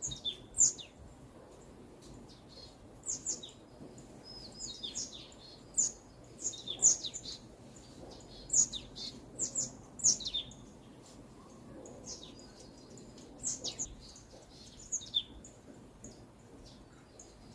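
Several songbirds chirping and calling: many short, quick, down-slurred chirps come at irregular intervals over a faint low background hiss.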